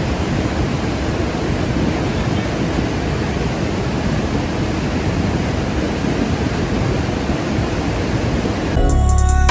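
Large waterfall: a loud, steady rush of heavy falling water with no breaks. Background music cuts back in near the end.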